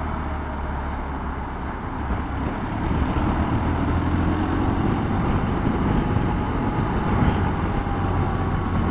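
Motorcycle running on the road with wind noise on the microphone: a steady low engine rumble under a rushing haze, growing louder about three seconds in.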